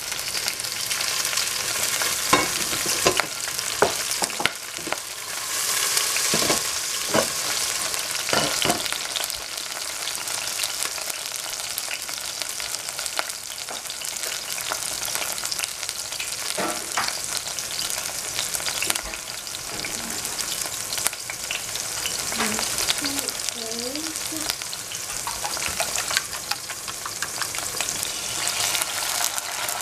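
Green onion pieces frying in hot oil in a stainless steel saucepan: a steady sizzle with scattered crackling pops, the pops most frequent in the first several seconds.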